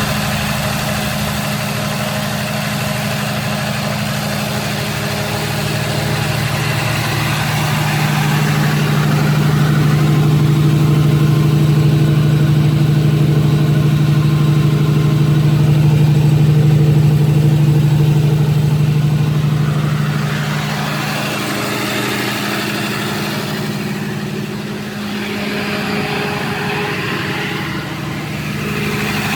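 Containerized diesel generator set running at a steady speed, a low even hum with a constant pitch. It grows somewhat louder in the middle and eases back about two-thirds of the way through.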